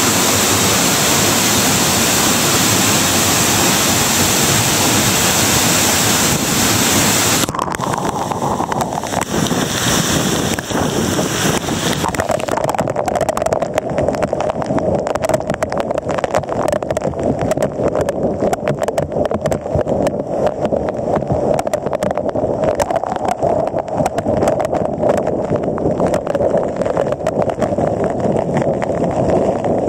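Rushing water, loud and even, for about the first seven seconds, then a sudden change to a steady motorboat engine drone with water and wind noise over it.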